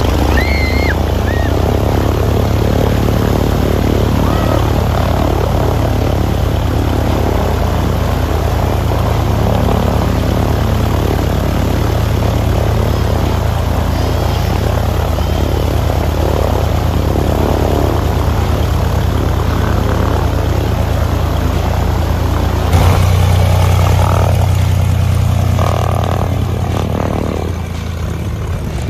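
Cessna R182RG Skylane's six-cylinder Lycoming piston engine and propeller running steadily at low power. The engine steps up louder about three-quarters of the way through, then eases back near the end.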